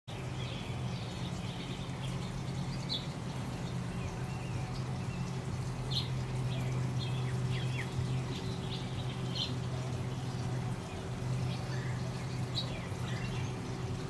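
Small birds chirping in short, scattered calls over water trickling across the pebbles of a garden stream, with a steady low hum underneath.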